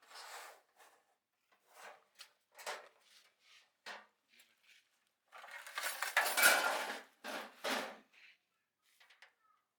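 Metal tools and parts being handled and set down: scattered clinks and knocks, then a louder clatter lasting about two seconds a little past halfway.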